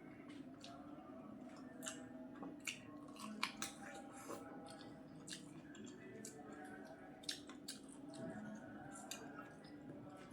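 Close-up chewing and wet mouth sounds of someone eating rice with vegetable curry: irregular soft smacks and clicks.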